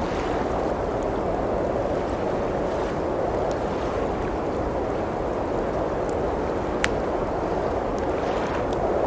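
Steady rush of blizzard wind with a wood fire crackling over it: scattered small pops, and one sharper pop about two-thirds of the way through.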